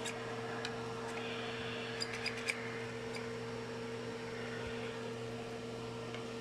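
Pet grooming vacuum running steadily on its lowest setting: an even motor hum with a hiss of air, and a few faint clicks about two seconds in.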